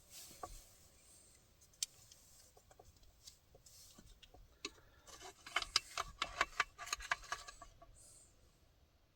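Small hard objects being handled: scattered light clicks and rubbing, with a busier run of sharp clicks and scrapes from about five to seven and a half seconds in.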